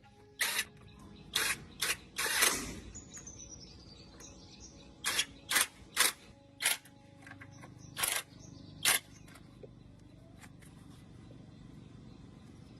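Mechanical work on a truck gearbox: about ten short, sharp bursts of noise at irregular intervals, one of them longer about two and a half seconds in.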